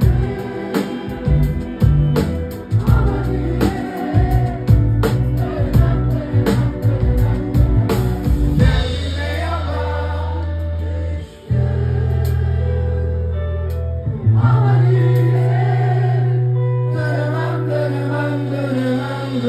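Live rock band playing with voices singing: drums hitting steadily for the first eight seconds or so, then the drums drop out and long held bass chords ring under the singing.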